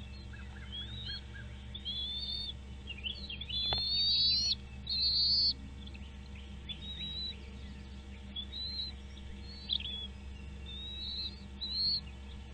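Birds calling: a string of high chirps and short slurred, rising whistled notes, loudest a few seconds in, over a steady low hum.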